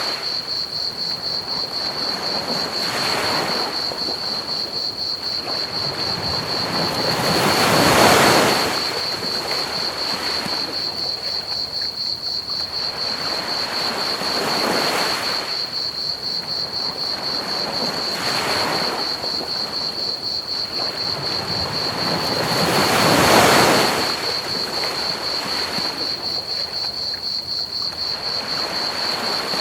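Ocean waves washing onto a beach in slow swells every few seconds, two larger breakers cresting about eight seconds in and again about two thirds through, over an even hiss of pink noise. Crickets chirp throughout as a steady, rapidly pulsing high trill.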